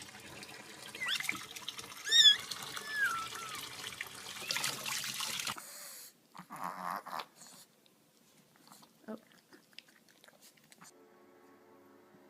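A cat's short meows, a few pitched calls about two and three seconds in, followed by a brief rustling burst and a few faint clicks.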